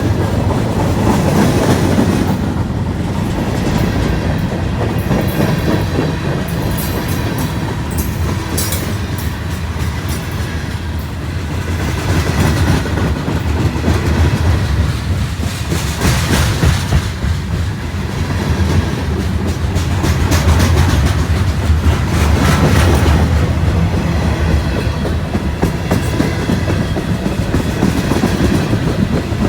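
Freight train cars rolling past, wheels clicking over the rail joints over a steady low rumble.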